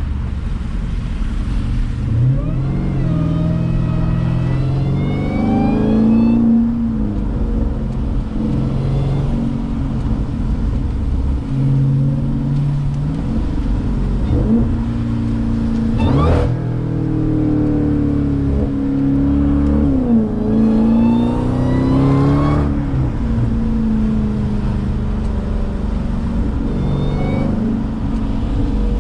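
Jeep Grand Cherokee Trackhawk's supercharged 6.2-litre V8 driving: a steady drone, with the engine note climbing under acceleration a couple of seconds in, again around the middle, and again about two-thirds through, each time dropping back as it shifts or lifts off.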